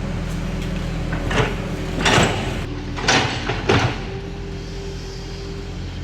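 Crawler bulldozer's diesel engine running steadily, with four short, sharp metallic noises in the middle of the stretch.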